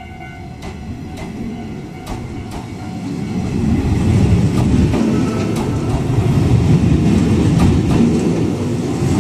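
Izu-Hakone Railway 7000 series electric train pulling out past the platform, its running rumble growing louder as it picks up speed, with wheels clicking over rail joints every half second or so.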